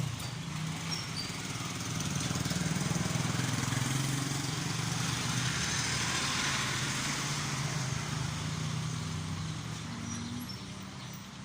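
Motorcycle engine running steadily under way, with road and wind noise. It grows louder about two seconds in and eases off near the end.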